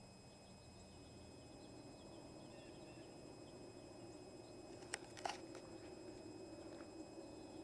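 Faint steady whir of a 1987 Montgomery Ward Evergo hugger ceiling fan running, slowly growing louder, with two sharp clicks about five seconds in.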